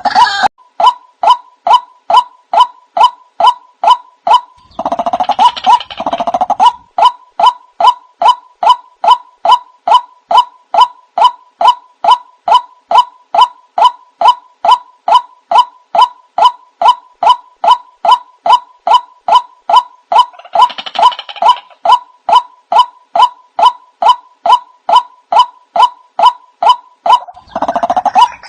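White-breasted waterhen calling: a steady run of the same note repeated two to three times a second, with a few stretches of denser, more jumbled calling, about five seconds in, around twenty seconds and near the end.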